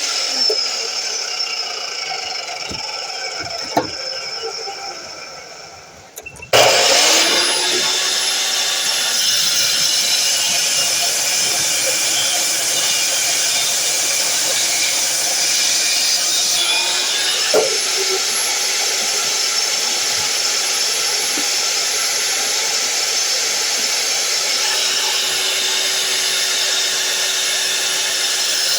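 DeWalt miter saw motor winding down with a falling whine for about six seconds, then switched on again with a sudden loud start and running steadily.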